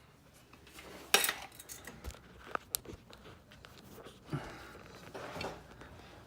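A few light clinks and knocks with faint rustling: a sharp clink about a second in, then two short ticks a little before the middle.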